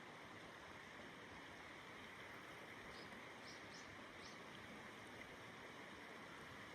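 Faint, steady rushing of stream water, with four short high chirps from a small bird about halfway through.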